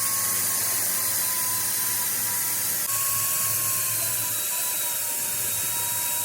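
A high-speed power tool running steadily, with a high hiss and a thin whine that wavers slightly in pitch, briefly interrupted about three seconds in.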